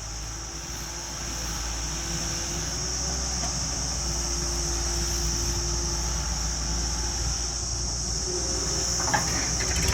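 A heavy vehicle's engine running as a steady low rumble that slowly grows louder, with a constant high-pitched hiss over it.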